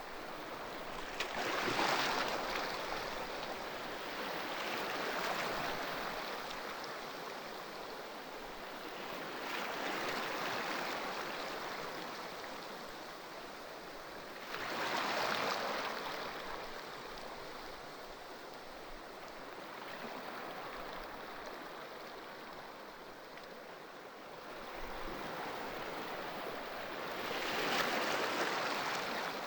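Ocean waves breaking on a shore: a steady surf hiss that swells with each wave every few seconds, the heaviest breaks coming about two seconds in, midway and near the end.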